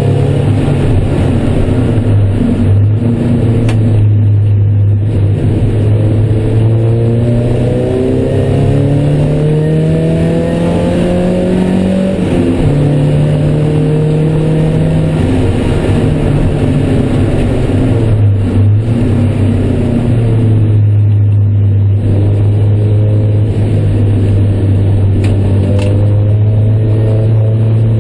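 Car engine heard from inside the cabin, driven hard on track. The revs climb, drop sharply at a gear change about twelve seconds in, fall again near fifteen seconds, then hold a steady high note through the last third.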